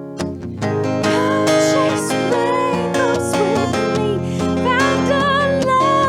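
Live acoustic guitar strumming in a pop song: a held chord gives way to fresh strumming just after the start, with a wavering melody line over it.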